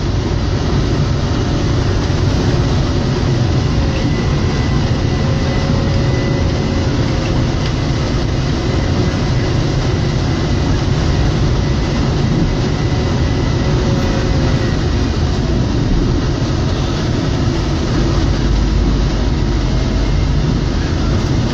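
John Deere 624J wheel loader's diesel engine running steadily under load while it plows snow, with a dense, continuous rumble and rattle.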